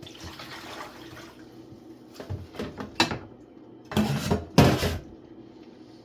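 Vegetables being washed by hand in a basin of salted water: water sloshing, with several louder splashes in the second half.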